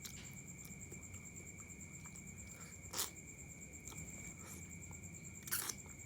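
Close-miked eating of mie ayam chicken noodles: a sharp mouth click about halfway through and a short cluster of smacks near the end, over a steady high-pitched trill.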